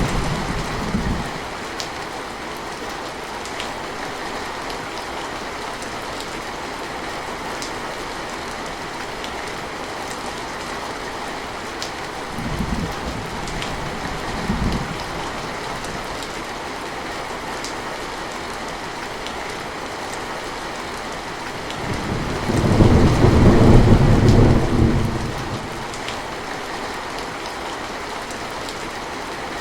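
Steady rain with rolls of thunder. One rumble fades out in the first second, two short low rumbles come around 12 to 15 seconds in, and a louder roll of thunder starts about 22 seconds in and lasts a few seconds.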